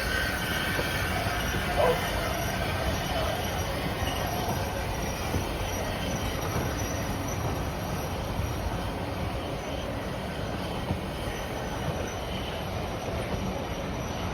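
A train running on the rails with a steady rumble and a faint high squeal from the wheels.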